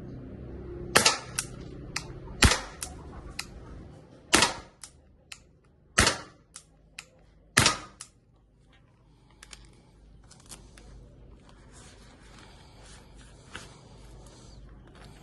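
Walther CP99 CO2 air pistol fired five times, about one shot every second and a half, each sharp crack trailed by a couple of lighter clicks. After the last shot only faint clicks and handling noise remain.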